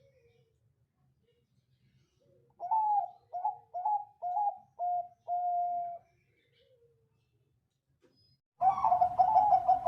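Zebra dove (Bangkok perkutut) cooing: a phrase of five short, clipped notes and a longer final note, starting about two and a half seconds in. Near the end another, louder phrase begins.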